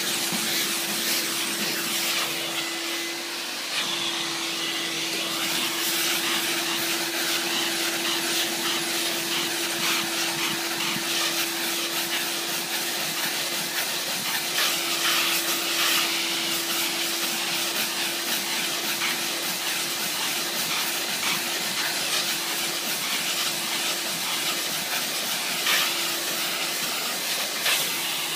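Steam car-cleaning machine running: a steady hiss of steam from the nozzle over a constant motor hum.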